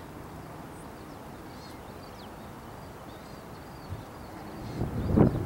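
Faint, short high chirps and peeps of birds, scattered over a steady outdoor hiss, with a brief, louder low thump about five seconds in.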